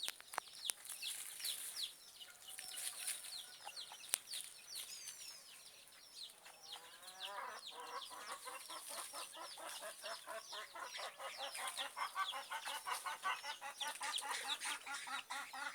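Casaca-de-couro birds (caatinga cacholote) calling in a loud, fast chattering exchange of short, high, falling notes. About seven seconds in a lower, rapid run of repeated notes joins and grows stronger toward the end, heard as the birds fighting.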